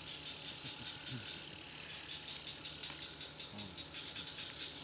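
Night chorus of crickets: a steady, high-pitched trill, with faint rapid ticking beneath it.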